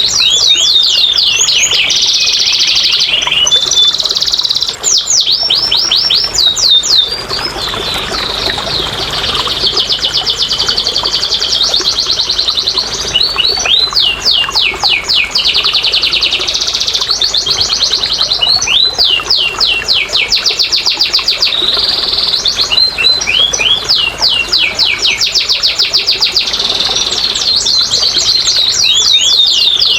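Domestic canary singing a long, unbroken song of rapid trills and rolling runs of repeated notes, changing from one run to the next every second or two.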